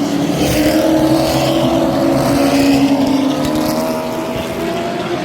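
Race cars' engines running together as they circle the track, a steady drone whose pitch rises and falls slightly.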